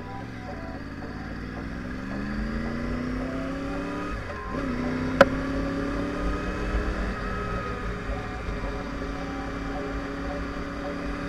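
2010 Yamaha R1's inline-four engine accelerating from low speed: its pitch climbs for about four seconds, drops sharply as it shifts up, climbs again and then holds steady at a cruise. A single sharp click sounds just after five seconds.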